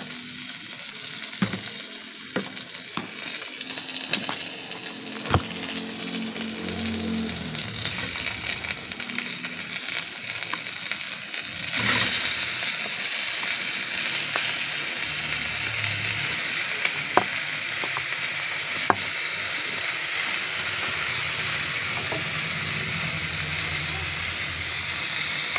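Raw chicken pieces sizzling as they fry in a hot metal wok with garlic and onion, with a few sharp clicks and knocks along the way. The sizzle grows louder about halfway through as more pieces go in.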